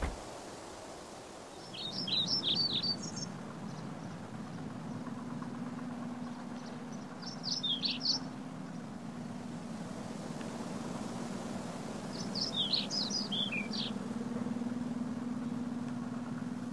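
Songbird chirping in three short flurries a few seconds apart, over a steady low outdoor hum.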